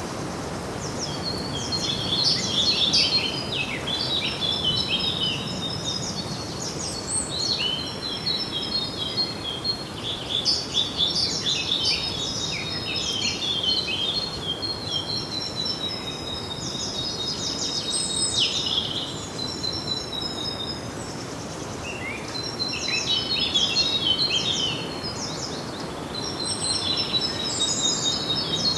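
Small songbirds singing in outdoor ambience: repeated high, rapid twittering phrases a few seconds long with short gaps between them, over a steady background hiss.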